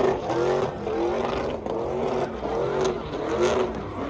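Truck engine revved in quick repeated bursts, its pitch sweeping upward with each one, several times over.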